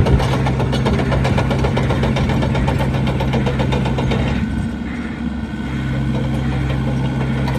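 Diesel engine of an XCMG XE60DA midi excavator running steadily with a low hum and clatter. About four and a half seconds in the clatter above the hum falls away, and the steady low tone returns a second later.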